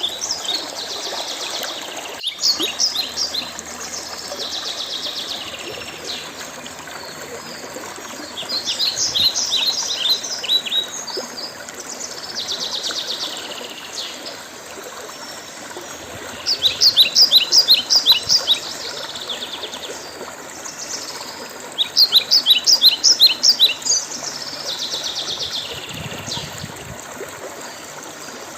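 Songbirds singing. Phrases of rapid, sharp, high notes come every few seconds, alternating with shorter buzzy trills, over a steady background hiss.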